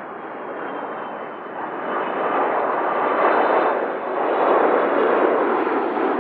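Jet airliner's engines, a rushing roar that builds over the first two seconds and stays loud, with a faint high fan whine above it.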